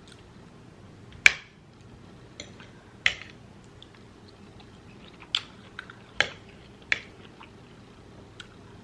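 Close-miked eating of cheesy meatballs and vegetables: quiet chewing broken by about five sharp, loud clicks, spaced a second or two apart, and a few fainter ones.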